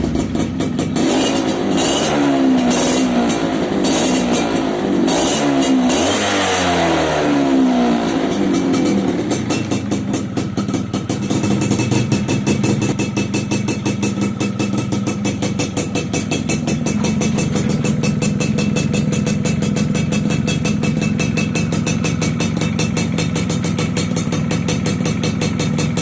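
Yamaha F1ZR two-stroke moped engine through an aftermarket Andy Speed exhaust, revved in a series of quick throttle blips for the first several seconds, then settling to a steady idle with a rapid even exhaust beat.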